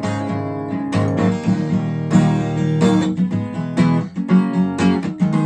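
Acoustic guitar strumming chords in a steady rhythm, with a last chord struck near the end and left ringing.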